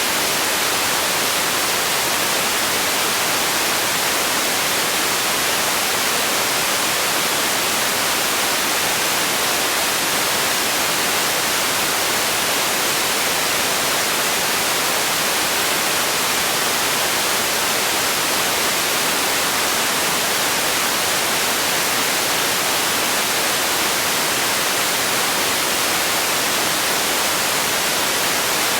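Steady, unchanging hiss of synthetic white noise, brightest in the treble and thin in the bass.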